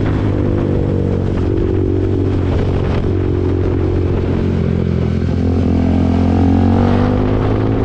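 KTM RC 390's single-cylinder engine through an SC-Project aftermarket exhaust, running at a fairly steady speed under way, with a slow rise in pitch in the second half.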